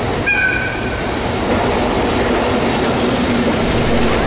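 EF64 electric locomotive hauling an E131 series electric train set past, a steady loud noise of wheels on rails, with a brief high squeal about a third of a second in.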